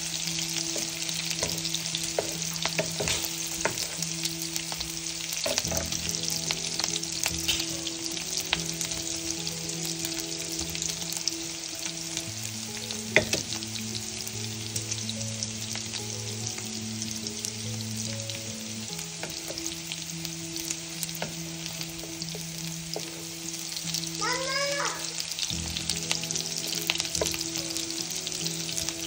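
Sliced sausages and garlic sizzling in hot oil in a nonstick frying pan, with a steady hiss, while a wooden spatula stirs them, scraping and tapping against the pan now and then.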